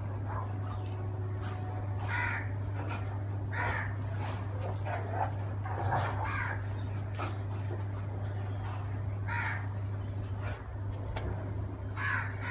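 A crow cawing, about six short harsh calls spaced a second or more apart, over a steady low hum.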